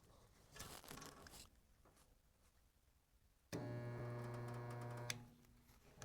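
Resistance spot welder's transformer giving a steady electric buzz for about a second and a half while it welds the floor pan sheet metal, starting and stopping abruptly with a click at the end. A faint rustle comes about a second in.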